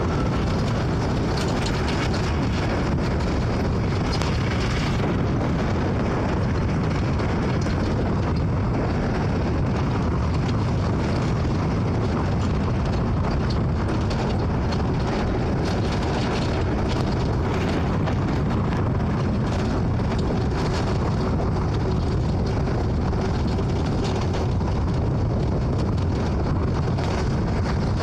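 Vehicle travelling along a highway: a steady rumble of engine and road noise with a hiss over it, unbroken throughout.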